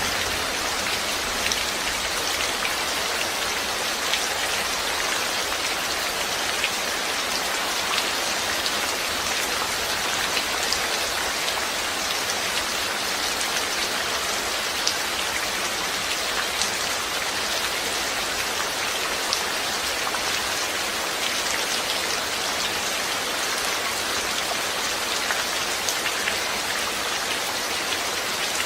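Steady rain falling, with many individual drops tapping sharply on a surface. It holds an even hiss throughout with no thunder.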